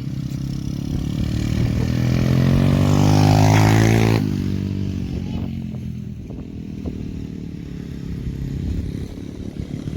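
A 50cc 10ten 50R dirt bike engine revving up, rising in pitch and getting louder for about four seconds. The throttle then shuts off suddenly and the engine drops back to a lower, quieter running.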